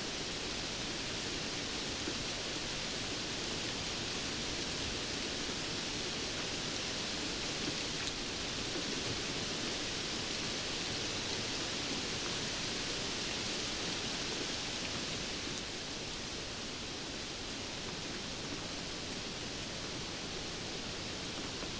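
Steady rain falling, an even hiss with a few faint drop ticks, easing slightly about two-thirds of the way through.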